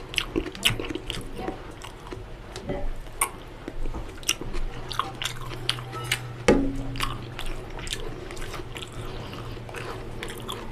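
Close-up wet chewing of mouthfuls of mutton biryani, with many sharp mouth clicks and lip smacks. One louder knock about six and a half seconds in.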